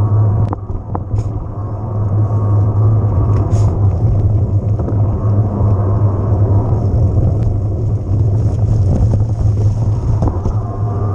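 Steady heavy rumble of an e-mountain bike being ridden, heard from a camera on the bike or rider: wind on the microphone and tyres rolling over the trail. A few sharp clicks or knocks come through near the start and again at about three and a half seconds.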